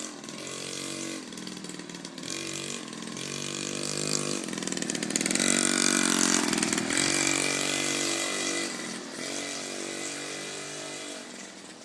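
Dirt bike engine revving as the bike rides past, its pitch rising and falling with the throttle. It grows louder toward the middle, loudest about six seconds in, then fades.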